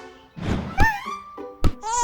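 Cartoon soundtrack music with sound effects: a whoosh, two sharp thunks, held musical notes between them, and a short wailing cry near the end.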